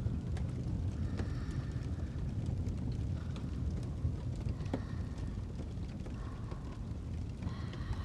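Crackling fireplace ambience: a steady low rumble with scattered small crackles and pops.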